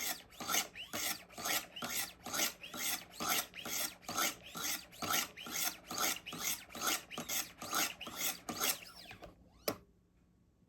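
Wicked Edge Go guided knife sharpener: 100-grit stones stroked in steady alternation along a knife edge, a rasping scrape a little over twice a second, at the coarse stage that raises and cleans off the burr. The strokes stop near the end, followed by a single sharp click.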